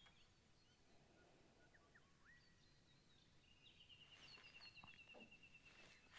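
Near silence with faint birdsong: scattered short chirps, then a rapid even trill that starts about halfway through and runs on to the end.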